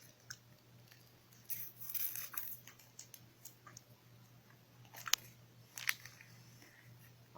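Quiet eating sounds: a person chewing a snack, with scattered soft mouth clicks and smacks, a brief rustle about one and a half seconds in, and two sharper clicks near the five- and six-second marks.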